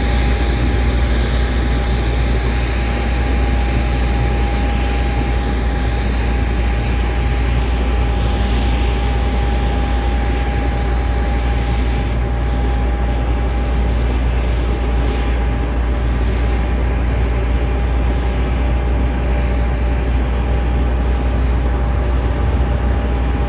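Boeing 737 MAX 9's CFM LEAP-1B turbofan engines running with a steady, loud roar, deep rumble and a steady whine over it.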